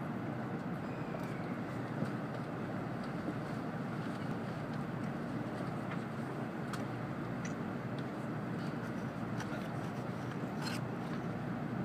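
Steady low rumble heard inside the cabin of an N700-series Shinkansen train as it pulls slowly away from the platform, with a few faint ticks.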